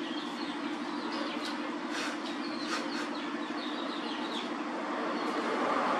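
Small birds chirping in short calls over a steady low hum.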